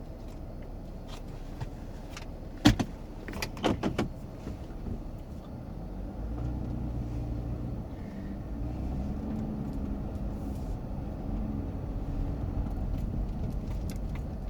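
Inside a minivan's cabin: a few sharp clicks and rattles about three to four seconds in, then the Dodge Grand Caravan's engine and tyres as it moves slowly, a low steady hum that grows a little louder from about halfway through.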